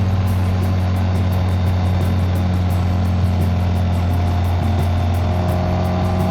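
BMW K1600GT's inline-six engine and exhaust running steadily while riding, an even, unchanging drone. A faint higher whine climbs slowly near the end.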